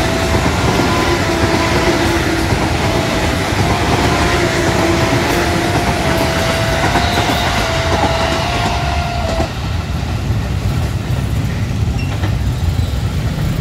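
A ten-car JR 205-series KRL electric commuter train running past close by, its wheels loud on the rails. A steady tone sounds in short repeated stretches alongside and stops about nine seconds in, while the rail noise carries on.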